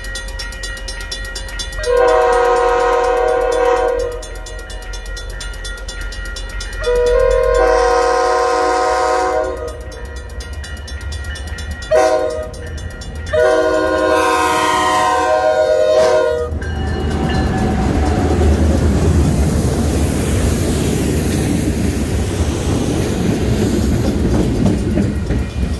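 Diesel locomotive's multi-note air horn sounding the grade-crossing signal as the train approaches: two long blasts, one short, then a final long one. Then the locomotive and train run past close by, a loud steady rumble of engine and wheels on rail.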